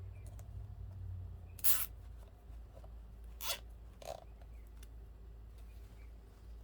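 Plastic zip tie being pulled tight through its ratchet lock: three short zipping rasps, the last two close together.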